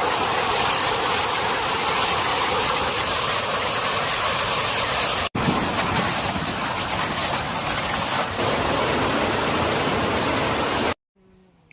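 Rushing water of a stream or waterfall, a loud, steady hiss. It breaks off for an instant about five seconds in and cuts off near the end.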